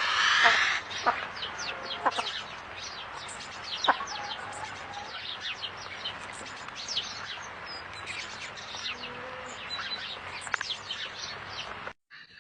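A loud, drawn-out pitched bird call for under a second, then many small birds chirping at once: a dense scatter of short, high chirps. The sound cuts off abruptly near the end.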